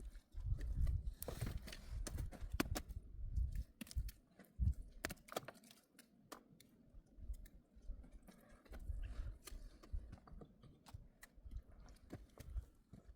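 Irregular sharp clicks and knocks mixed with dull low thuds, with no steady rhythm.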